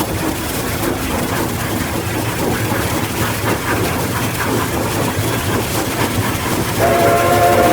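Locomotive running with a low rumble and irregular clatter, then near the end its horn starts sounding a steady chord of several notes.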